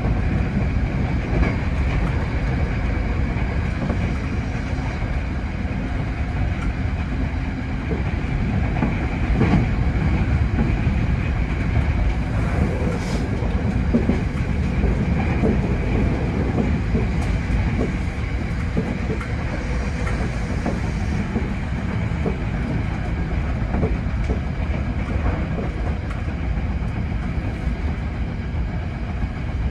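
Hankyu 8000 series electric train running at speed, heard from the driver's cab: a steady low rumble, with the wheels clicking now and then over rail joints.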